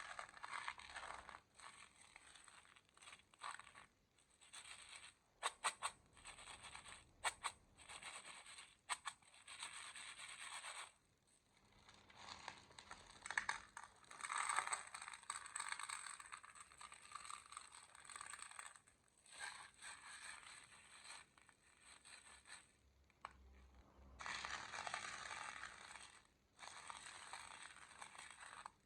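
Small candies being poured into and stirred around in a plastic toy bathtub, in bursts of rustling and scraping separated by short pauses, with a run of sharp clicks about six to nine seconds in.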